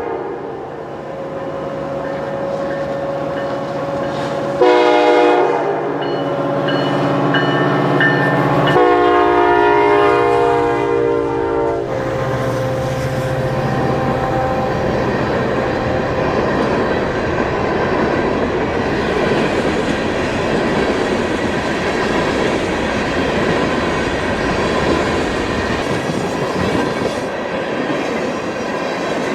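Diesel locomotive air horn on a Canadian National freight train, sounding two long chord blasts back to back that end about twelve seconds in. Then the train rolls past with a steady rumble and clatter of wheels on the rails.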